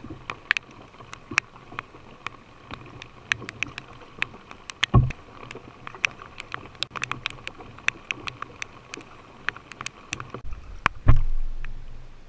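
Canoe paddling on a river: many irregular light taps and drips, with a heavier knock about five seconds in and a louder one near the end that fades out.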